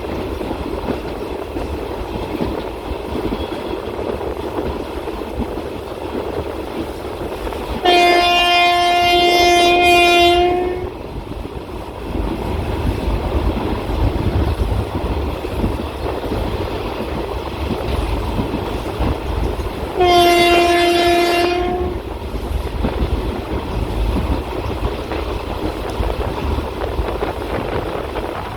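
Train running along the track with steady rail noise, while the locomotive horn sounds twice. The first is a long blast of nearly three seconds about a third of the way in; the second is a shorter blast of about two seconds about two-thirds in.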